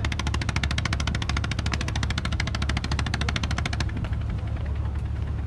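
Cruise boat engine running with a steady low rumble and a rapid, even ticking clatter at about ten strokes a second; the clatter cuts off a little under four seconds in while the rumble carries on.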